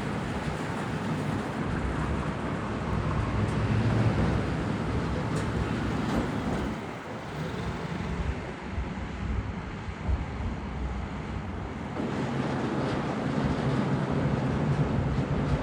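Barge-mounted drilling rig machinery running with a steady low rumble, mixed with wind noise on the microphone. The rumble eases about seven seconds in and comes back stronger at about twelve seconds.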